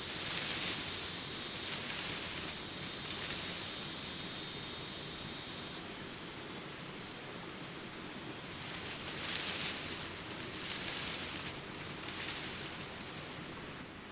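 Daytime forest ambience: a steady high insect chorus of crickets over a soft noisy background, with brief swells of rustling leaves and branches a few times.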